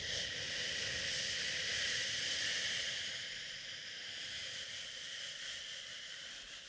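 A long "shhh" shushing hiss to soothe a baby, starting abruptly and slowly fading over about seven seconds.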